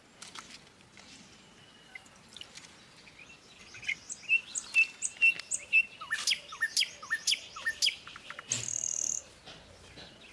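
Small birds chirping: a run of short, sharp, high chirps, starting faintly and growing busy about halfway through. A brief hiss near the end.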